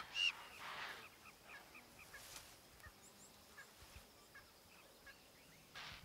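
Faint bush ambience with birds giving short, high chirps, about two or three a second.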